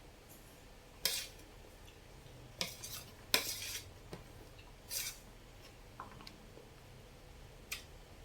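Eating utensils clinking and scraping against a bowl of noodle soup, about six short clinks spread unevenly.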